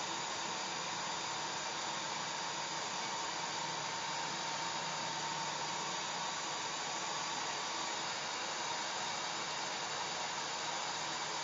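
Electric hair dryer running steadily, a constant airy rush with a faint steady whine in it.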